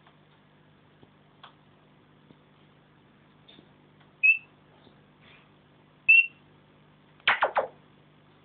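African grey parrot giving two short, high whistles about two seconds apart, then a quick run of three sharp clicks near the end.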